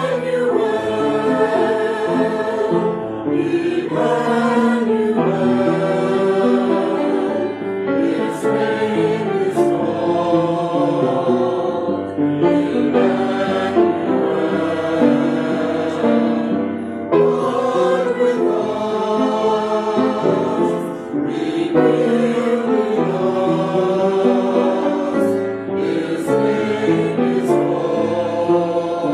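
Church choir singing the postlude, several voices in harmony holding long sung notes.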